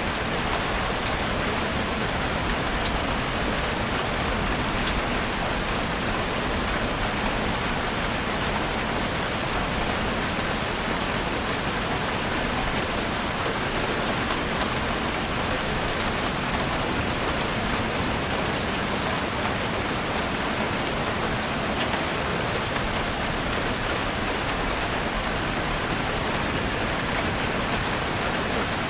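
Heavy rain drumming steadily on a roof, a dense even hiss with many small drop ticks.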